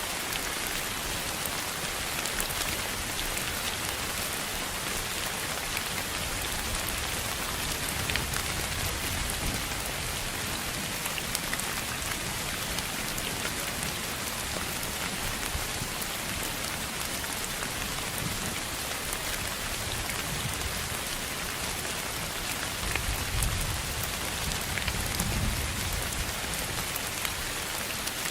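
Steady rain: an even, unbroken hiss with faint scattered drop ticks, played as a pink-noise sleep sound. Soft low rumbles swell briefly about a third of the way in and again near the end.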